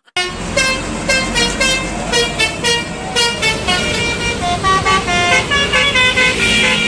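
Indonesian 'telolet' bus horn (Basuri-style multi-tone horn) playing a quick melody of short honked notes that change pitch every few tenths of a second.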